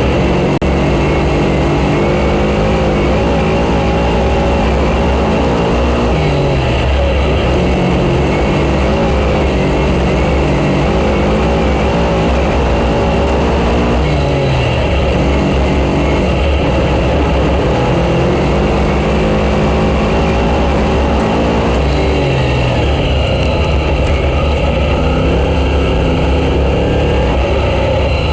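Race car engine running hard at racing speed, its pitch falling and climbing again several times, about every eight seconds, as it backs off and accelerates through the laps.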